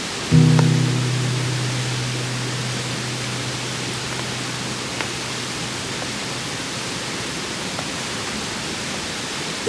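A single acoustic guitar chord struck and left to ring, fading out over about six seconds, over a steady rushing noise.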